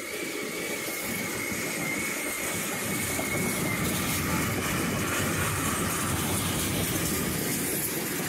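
Freight train tank cars rolling past at speed, a steady rumble and clatter of steel wheels on rail, with a faint high wheel squeal over the first few seconds.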